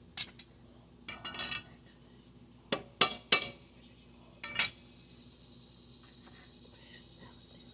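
Metal tools and mower parts being handled: a few light clicks, a short rattle, then several sharp metallic clinks, the loudest about three seconds in.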